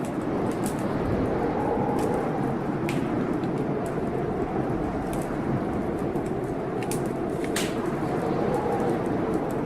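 Blizzard wind blowing steadily with slow swells and a faint howl that rises and falls. A wood fire crackles over it with scattered sharp pops at irregular intervals, the strongest about three-quarters of the way through.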